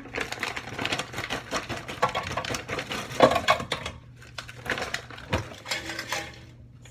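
Handling in a kitchen: a plastic food bag rustles and chicken strips tap and click as they are put into an air fryer basket, irregular and busy, over a faint steady low hum.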